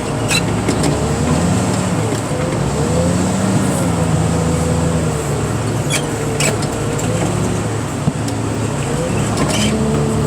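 Heavy equipment's diesel engine running steadily, heard from inside the cab, with a whine that rises and falls as the machine works. A few sharp ticks come through about a third of a second in and again around six seconds in.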